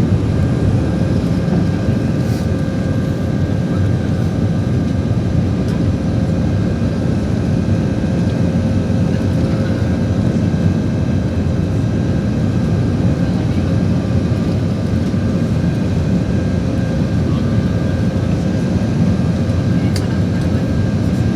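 Steady engine and airflow noise inside the cabin of an Airbus A319-112, with a deep rumble and faint steady whines from its CFM56 jet engines running at constant power.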